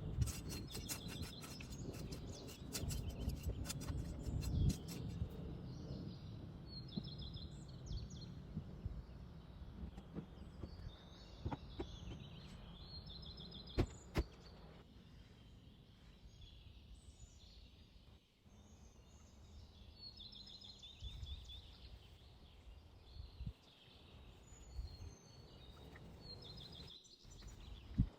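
Small songbirds singing short, high trilled phrases that recur every few seconds, over a low outdoor rumble that fades about halfway through. A few sharp clicks sound in between.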